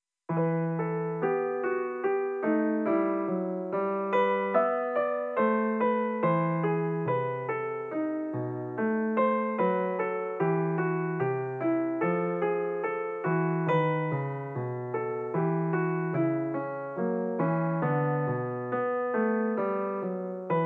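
Background piano music: an even stream of notes, about two a second, over a changing bass line.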